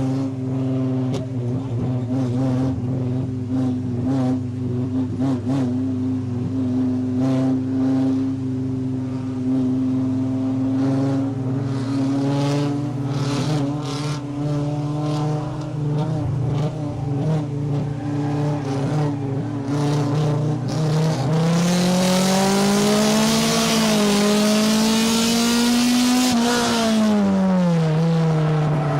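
Race car engine heard from inside the car, running at a fairly steady pitch for most of the time. About three quarters of the way through the note climbs and wavers under throttle with a loud hiss joining it, then drops sharply near the end as the driver lifts off.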